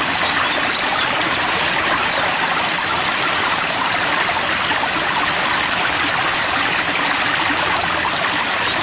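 Steady rushing of running water, like a flowing stream.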